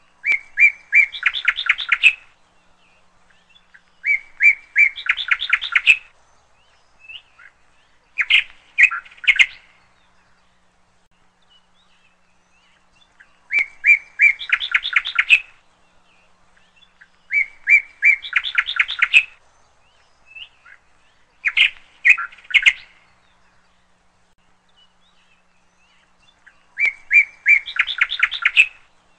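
A bird chirping in repeated runs of quick high notes, each run about two seconds long and ending in a faster trill, with a few seconds' pause between runs.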